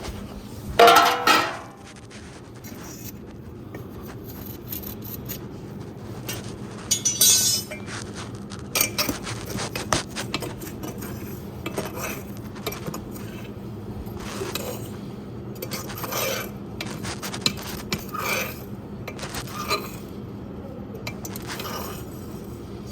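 Metal tool scraping and clinking against the metal firebox of a homemade wood-burning fireplace while ash is cleaned out: irregular scrapes and knocks, the loudest about a second in.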